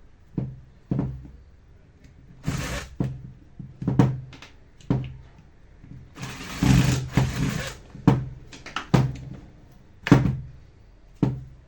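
Screws being fitted into a Black+Decker 7750 angle grinder's housing: a series of short clicks and knocks of tool and parts, with two longer noisy bursts, one about two and a half seconds in and a longer one around six to seven and a half seconds in.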